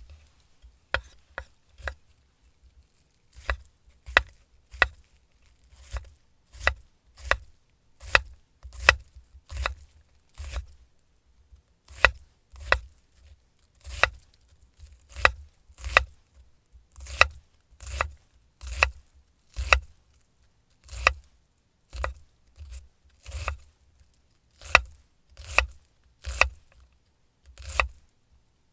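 Knife chopping on a wooden cutting board in steady, evenly spaced strokes, about three every two seconds, each with a light thud from the board.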